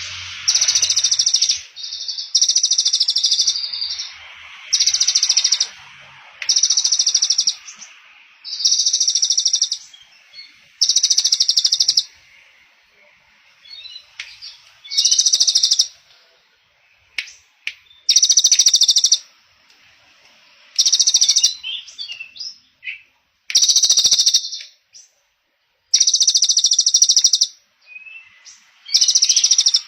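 A small songbird singing a fast, rattling 'trotol' trill in bursts of about a second, repeated every one to two seconds, with softer chirps in the gaps.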